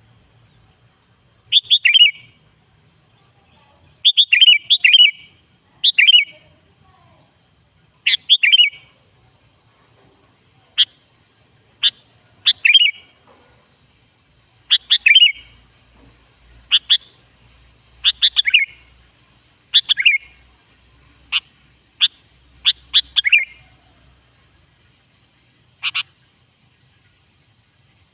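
Sooty-headed bulbul (kutilang) singing: short, bright phrases of quick falling notes, repeated every second or two with brief pauses between.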